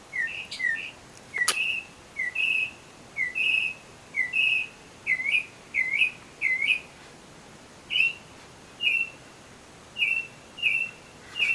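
Northern mockingbird singing at night: loud whistled phrases at short, even gaps, each phrase type repeated several times before the bird switches to a new one.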